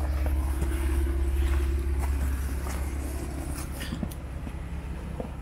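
Jeep Wrangler Rubicon's V6 engine running at low speed, a steady low rumble that slowly fades toward the end.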